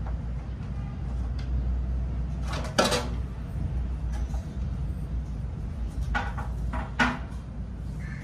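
Hard clacks and knocks of photocopier parts being handled during repair: one loud clack about three seconds in and three more near the end, over a steady low rumble.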